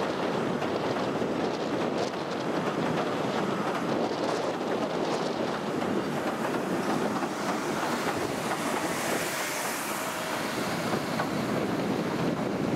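Steady wind buffeting the microphone over the rumble of a narrow-gauge pier railway train's carriages running past close by and then away. A high hiss swells and fades about nine seconds in.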